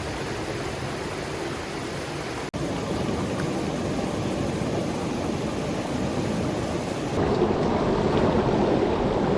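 Rushing mountain-stream water, a steady hiss of fast current. It breaks off for an instant about two and a half seconds in, then turns louder and duller about seven seconds in.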